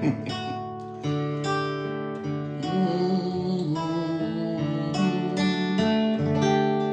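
Guitar strumming chords, each struck and left to ring, the last chord near the end held and fading away.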